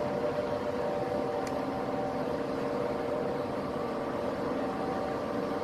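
Heavy truck engine running steadily as it hauls a load, a constant hum with a steady whine over road noise.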